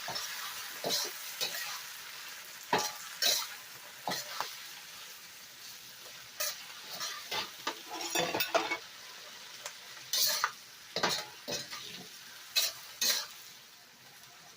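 Chicken and Chinese broccoli in oyster sauce sizzling in a hot pan while being stir-fried, a spatula scraping and tossing against the pan in short irregular strokes over a steady sizzle.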